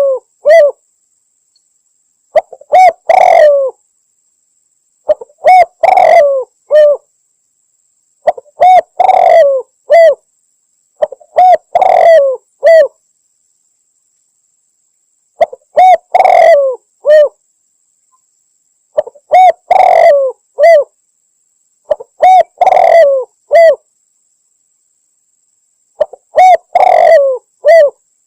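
Spotted dove (tekukur) cooing, a loud recorded lure call used for dove hunting and presented as a female calling a male. Each phrase is a short run of coos, repeated about every three seconds, nine times.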